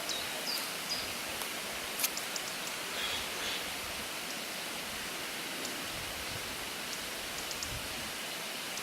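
Steady rushing background noise, with a few faint high chirps and one sharp click about two seconds in.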